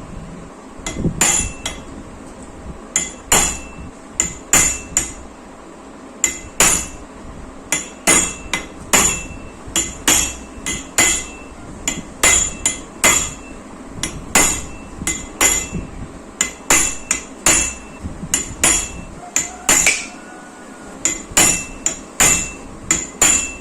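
Hammer blows on a hand impact driver, tightening the engine's crankcase screws: sharp metallic strikes, each with a brief ring, coming roughly one or two a second, often in quick pairs.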